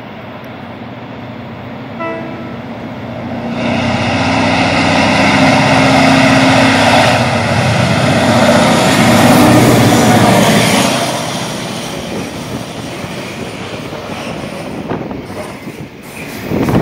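A TCDD DE 22000 diesel-electric locomotive's EMD 16-645E two-stroke V16 engine running under load, getting much louder from about three and a half seconds in as it comes out of the tunnel and passes, loudest for about six seconds. Then container freight wagons roll by with a lower, steady clatter of wheels on the rails.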